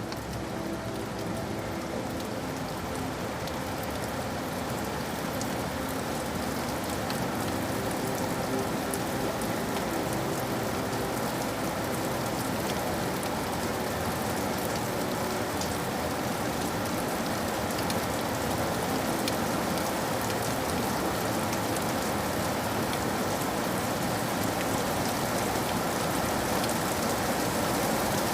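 Steady rain falling: a dense, even hiss of drops hitting a surface, with individual drops ticking through it. It slowly grows louder.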